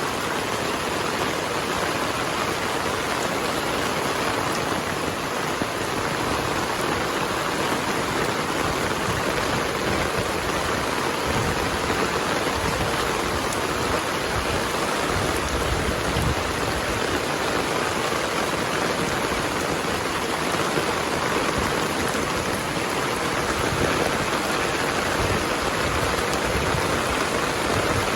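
Heavy rain falling steadily, a dense even hiss with no thunderclap.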